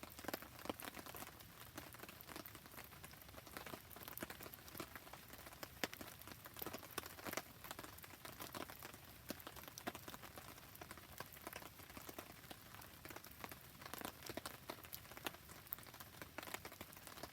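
Steady rain falling, with a wood fire crackling: many small, sharp pops and ticks over the patter.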